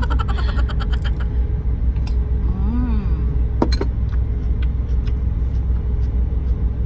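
Steady low rumble of the truck's engine running, with scattered light clicks and clinks of cooking utensils and one sharper click about halfway through.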